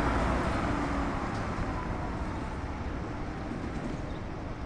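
Caio e-Millennium battery-electric bus on a Scania K310 chassis pulling away, its rolling noise fading over the first couple of seconds and then settling into steady street noise.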